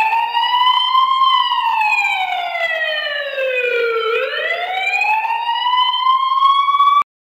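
Siren wail sound effect: a single pitched tone that rises briefly, falls slowly for about three seconds, rises again, then cuts off suddenly near the end.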